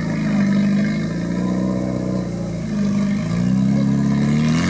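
Suzuki Samurai 4x4's engine revving under load as it climbs a steep grassy slope, its pitch rising and falling with the throttle and rising near the end.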